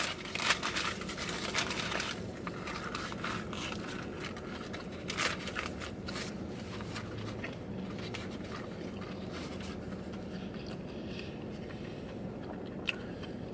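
Biting into and chewing a pre-breaded fried chicken sandwich. A cluster of crunchy crackles comes in the first two seconds, then quieter chewing with a few scattered soft clicks.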